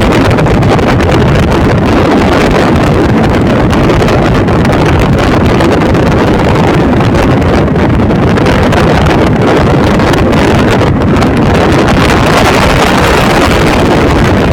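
Steady, loud rush of wind buffeting the microphone over the running noise of a moving passenger train. It cuts off sharply at the end.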